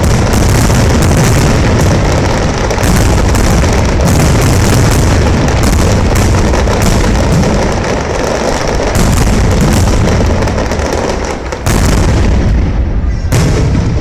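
Fireworks display: a loud, dense barrage of overlapping booms and sharp bursts, with a brief dip near the end before more bursts.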